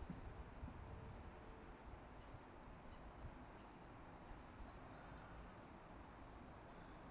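Faint outdoor ambience with a few short, high bird chirps and brief trills every second or two over a low background rumble.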